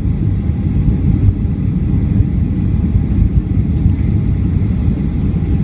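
Steady low cabin rumble of a Boeing 757-200 rolling on the ground after landing: engine and airframe noise heard from inside the passenger cabin.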